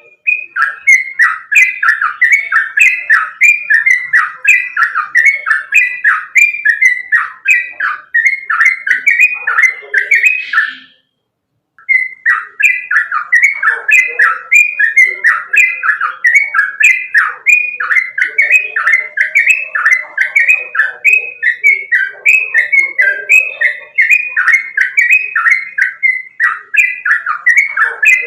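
Yellow-vented bulbul (trucukan) singing a fast, loud run of short repeated notes, about two to three a second. The song breaks off for about a second near the middle, then carries on at the same pace.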